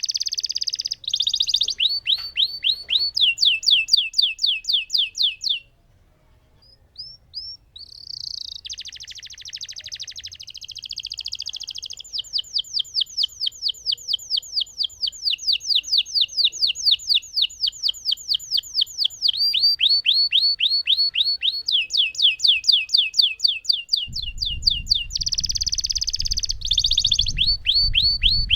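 Lemon canary singing long rolling trills of rapid, evenly repeated downward-sweeping notes, about eight a second. The song breaks off briefly about six seconds in and then resumes, with a low rumble underneath near the end.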